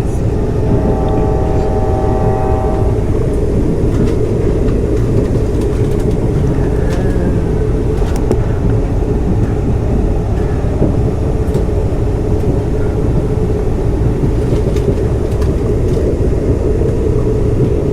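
Amtrak passenger train running along the track, a steady rumble with scattered faint clicks, heard from on board. A brief steady tone sounds in the first few seconds.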